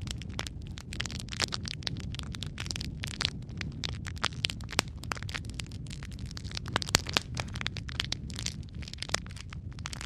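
Logs burning in a fireplace, crackling with many sharp pops, several a second, over a low, steady rush of the flames.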